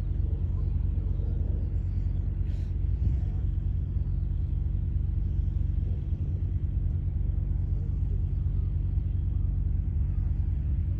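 An engine running at a steady speed: an even, deep rumble with a steady low hum that does not rise or fall.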